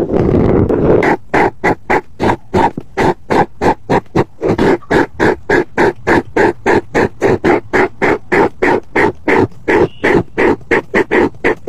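Colouring in on paper with quick back-and-forth strokes: a continuous scratchy scribble for about a second, then an even rhythm of about four rasping strokes a second.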